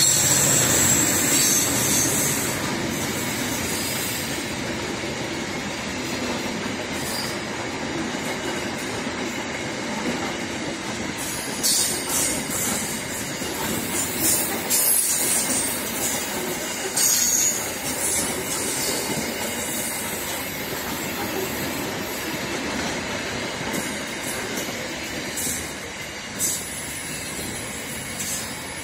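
A freight train passing at speed. The locomotive's engine noise fades over the first few seconds, leaving the steady rolling rumble of wagon wheels on the rails. Several brief, sharp, high wheel squeals come through around the middle and once near the end.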